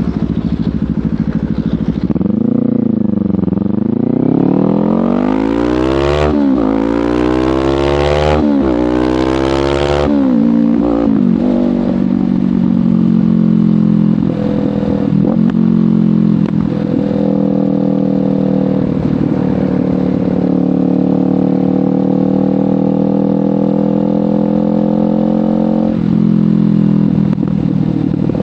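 Kawasaki Ninja 500 parallel-twin through a LeoVince GP Corsa Evo slip-on exhaust, heard from the bike while riding. A few seconds in the revs rise in three climbs, each cut short by a brief break for an upshift, and from about ten seconds in the engine settles into a steady cruise.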